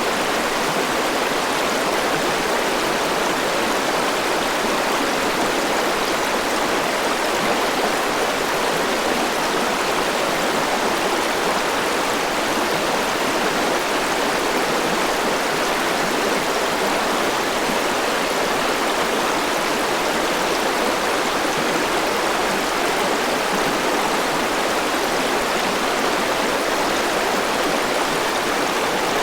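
Forest river flowing over rocks, a steady, even rushing of water.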